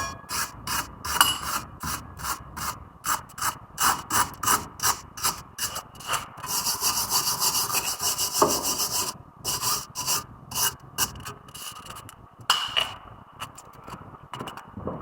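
Hand-tool work on a car's front brake assembly: repeated back-and-forth rasping strokes of metal on metal, about two or three a second. There is a steadier unbroken stretch in the middle, and the strokes grow sparser near the end.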